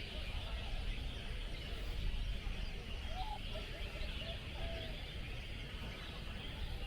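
Many caged songbirds chirping and singing at once in a dense, continuous chatter of short high notes, over a steady low rumble.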